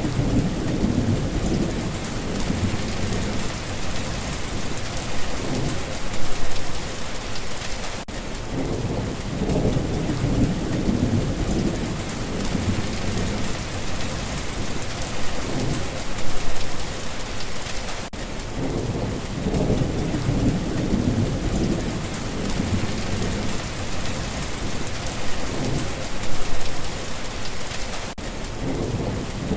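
Steady heavy rainfall with low rolls of thunder that swell and fade. The same ten-second stretch repeats, with a brief break in the sound about every ten seconds.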